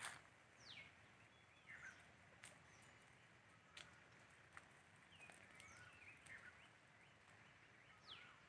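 Faint bird calls: several quick whistles that fall steeply in pitch, and short chirps, spread over a few seconds.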